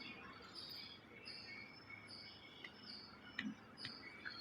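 Faint, regular chirping of a small bird, short high chirps repeating about two to three times a second, with a few soft clicks among them.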